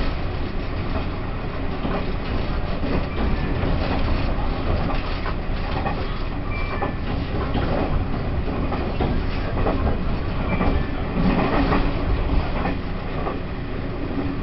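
Taiwan Railways E1000 push-pull Tze-Chiang express train running: a steady low rumble of wheels on rail with scattered clicks and knocks, heard from inside a carriage, a little louder about eleven seconds in.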